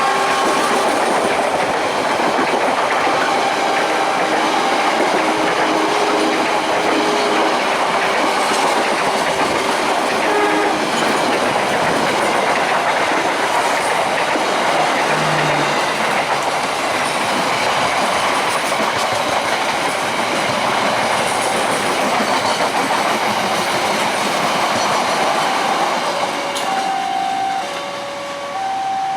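A train passing over a level crossing: loud, steady rolling and clattering of wheels on rail that fades about four seconds before the end. Repeating stepped warning tones from the level-crossing signal sound over it in the first ten seconds and again near the end.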